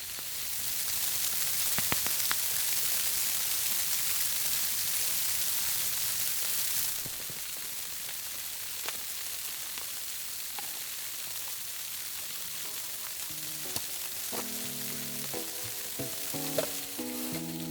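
Steady hiss of heavy falling snow, louder for the first seven seconds, with a few faint crackles from a campfire. Background music with held notes comes in about twelve seconds in.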